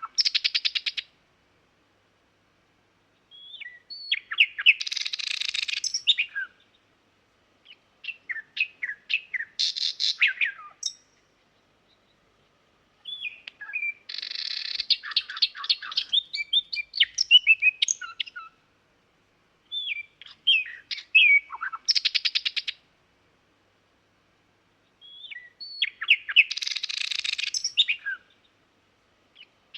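Common nightingale singing: about six separate song phrases, each a few seconds long, mixing whistled notes with fast rattling trills, and short pauses between them.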